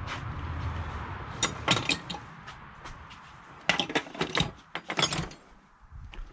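Metal hand tools clinking and clicking as they are handled, in irregular groups of sharp clicks, with a faint steady background hum at first.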